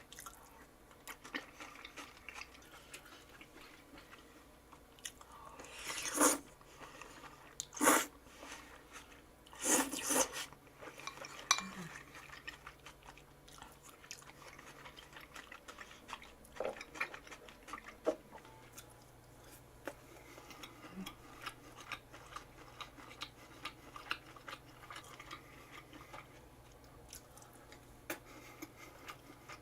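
A person eating: chewing and crunching food, with utensils clicking against dishes and containers. Three or four louder crunches or clatters come in the first third, then lighter clicks of utensils.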